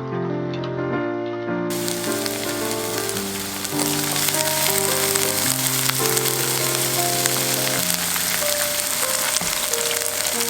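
Food sizzling and crackling as it fries in hot oil, starting suddenly about two seconds in, over background music.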